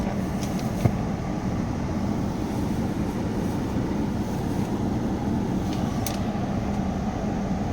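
Steady low hum and rumble inside a parked car's cabin, with a single sharp click about a second in.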